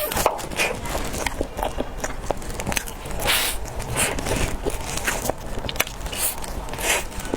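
Close-miked eating of cake: an irregular run of small clicks and crackles of chewing, with a few longer, louder bursts.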